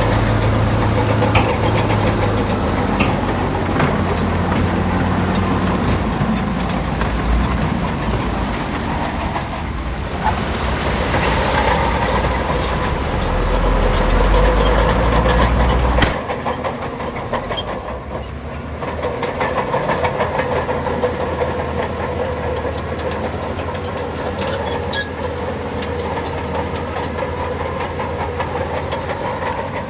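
Heavy diesel earthmoving machinery running under load, a steady engine drone with scattered clanks. The low rumble drops off abruptly about halfway through and the machinery carries on more lightly.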